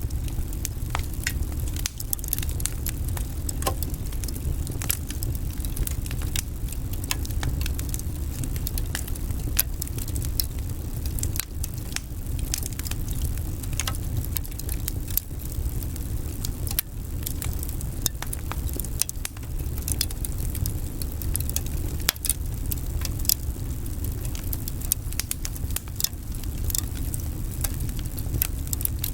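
Wood fire burning in a fireplace: many quick, irregular crackles and pops over a steady low rumble.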